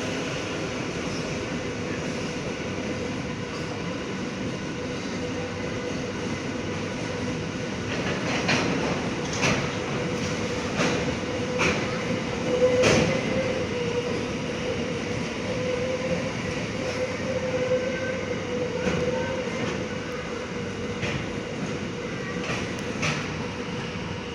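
Freight train wagons rolling past, steel wheels clacking over rail joints in irregular clicks, with a faint steady wheel squeal running under the rumble.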